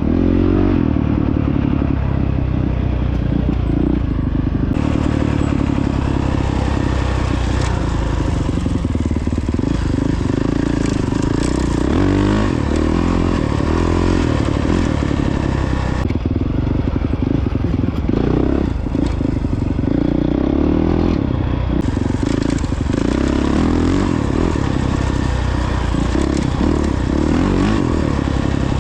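Honda CRF450X dirt bike's single-cylinder four-stroke engine running while riding, its pitch stepping up and down with throttle and gear changes, over a wash of noise and short rattles.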